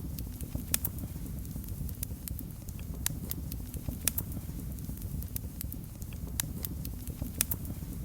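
Wood fire crackling in a fireplace: irregular sharp snaps and pops, a few a second, over a steady low rumble of the flames.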